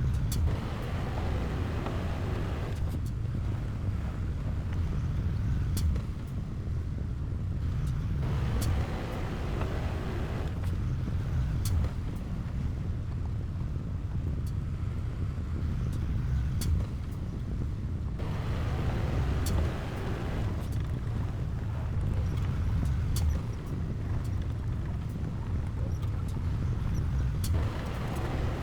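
Diesel engine of heavy earthmoving machinery running steadily, with stretches of louder working noise that come and go every few seconds and scattered sharp metallic clanks.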